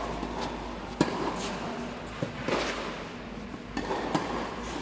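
Tennis ball being struck by rackets and bouncing on the court during a rally. The sharpest hit comes about a second in, followed by a few lighter knocks.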